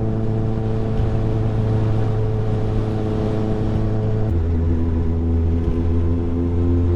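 Kawasaki ZXR's inline-four engine running steadily under way, its note stepping down to a lower pitch about four seconds in.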